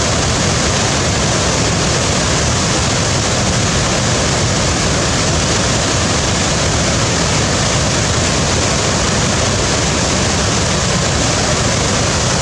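Waterfall: a steady, dense rush of falling water, unchanging throughout.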